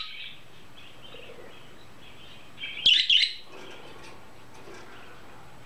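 Budgerigar chirping: soft, continuous chirping chatter, with a short loud burst of sharp chirps about three seconds in.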